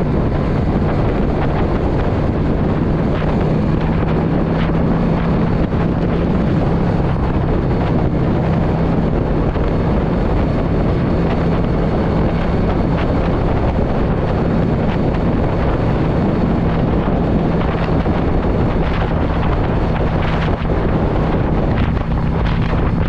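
A 2016 Yamaha V Star 650 cruiser's air-cooled V-twin engine running at a steady cruising speed, mixed with heavy wind noise on the microphone.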